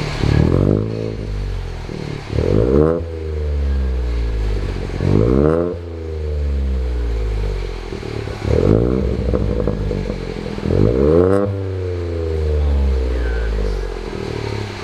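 Ford Fiesta EcoBoost three-cylinder engine breathing through a freshly fitted Cobra cat-back performance exhaust, being blipped about five times. Each rev rises sharply and then falls back slowly to idle.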